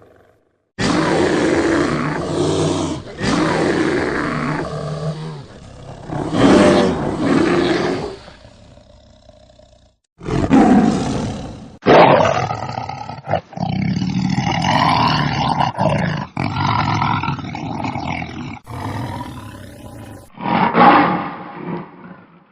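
Lion roars from a sound-effect library, about six in a row, each one to several seconds long with short gaps between them and a few abrupt cuts.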